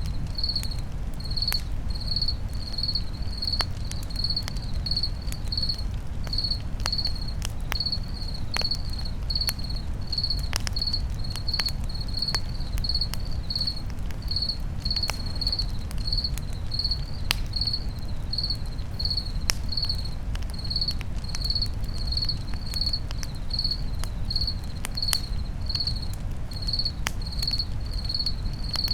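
A cricket chirping steadily, a little under twice a second, over a campfire crackling with scattered sharp pops and a low rumble.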